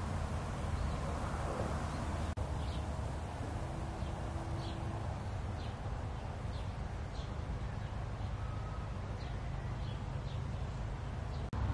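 A small bird giving short, high chirps, about one a second, over a steady low rumble of outdoor background noise.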